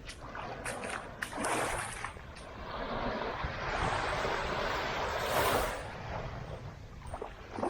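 Caribbean surf washing onto the beach. A wave's wash builds from a few seconds in, is loudest about two-thirds of the way through, then falls away, with a few short splashes or clicks early on.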